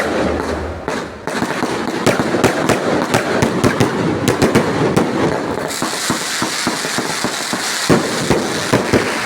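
Fireworks going off in rapid succession: a dense run of bangs and crackling pops, with a sizzling hiss joining in about six seconds in.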